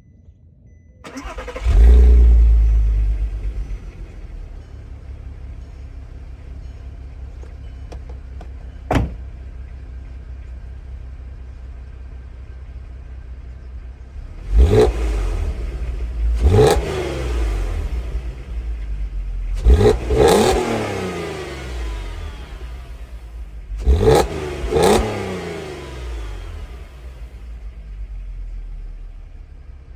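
2008 Audi TT 3.2's VR6 engine through its stock exhaust: it starts about a second in with a brief flare of revs and settles to a steady idle. From about halfway it is given about six sharp throttle blips, each revving up and falling back to idle.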